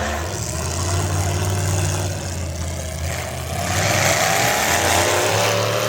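Pulling truck's engine running hard under load, with a whine that climbs gradually in pitch over the second half.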